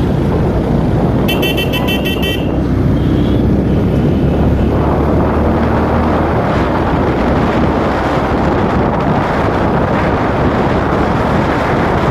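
Running and wind noise of a Runner Bullet 100cc motorcycle on the move, with a vehicle horn beeping in quick pulses for about a second, a little over a second in. The wind and road noise grow louder about four and a half seconds in.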